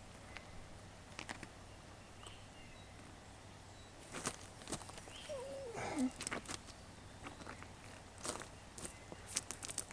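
Footsteps on outdoor ground, with scattered light crunches and clicks that come thicker in the second half. A short falling tone sounds just past the middle.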